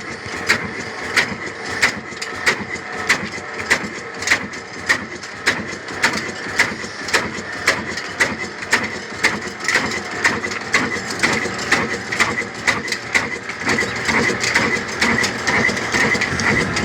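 Old single-cylinder kala desi diesel oil engine running, with a sharp, regular knock about one and a half times a second; the beat grows denser and less distinct near the end.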